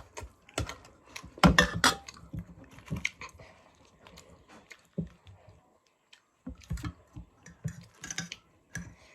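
Close-miked eating of instant noodles: irregular clicks and knocks of utensils against the dish, with chewing.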